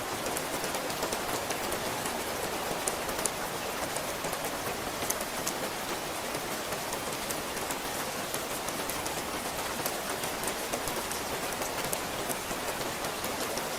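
Steady rain falling, with many separate drops ticking sharply on a nearby surface.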